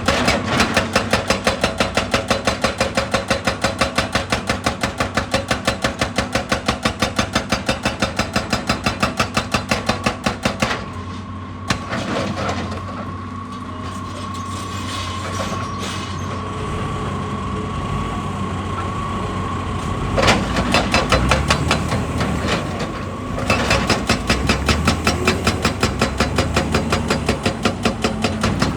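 Excavator-mounted hydraulic breaker hammering rock in rapid, even blows. It stops about eleven seconds in, leaving the excavator's diesel engine running with a steady whine, then starts hammering again near the end.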